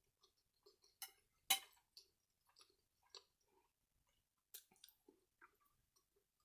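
Close-miked eating: quiet chewing with wet mouth and lip smacks, broken by a few sharper clicks about one, one and a half and four and a half seconds in.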